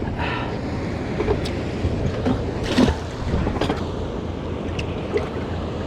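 A fishing boat on open water: a steady low rumble with water washing and wind on the microphone, broken by scattered short knocks, the loudest about three seconds in.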